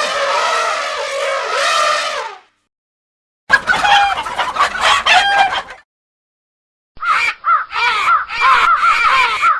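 Chickens: a rooster crows once, a long call lasting about two and a half seconds. After a short silence, hens cluck in two separate bursts of quick, choppy calls.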